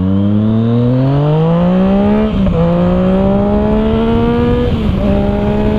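Yamaha FZ-09 (MT-09) three-cylinder engine, breathing through an Arrow exhaust with the dB killer removed, accelerating hard under load. The revs climb steadily, then drop briefly for an upshift a little over two seconds in and again near five seconds in. Wind noise runs underneath.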